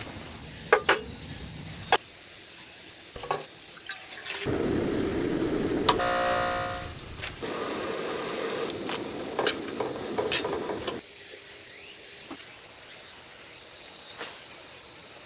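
Rain falling, with scattered sharp drips and taps over a steady hiss. In the middle stretch there is a louder, fuller rush of water noise.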